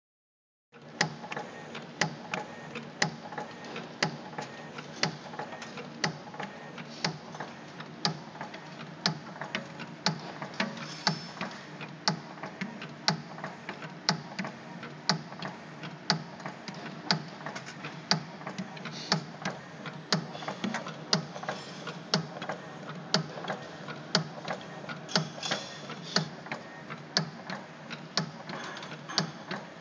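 CNC spring coiling machine making compression springs: a steady machine hum with a sharp clack about once a second and lighter clicks between, the rhythm of its coiling and cut-off cycle.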